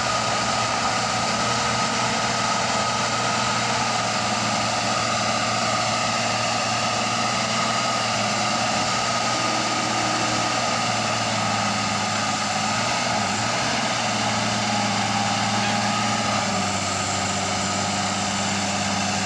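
Borewell drilling rig's engine running steadily under load while drilling, a continuous hum with a high whine on top; its pitch drops slightly near the end.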